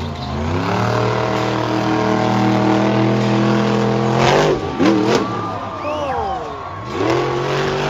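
Monster truck engine revving up and held at high revs for a few seconds, then dropping off about four seconds in with some quick rises and falls, before revving up again near the end.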